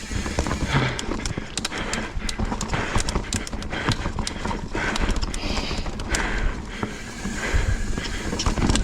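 Mountain bike ridden fast down a rough dirt trail: tyres rolling over dirt and rocks, with the bike rattling in many sharp clicks and knocks over the bumps. Wind rumbles on the microphone throughout.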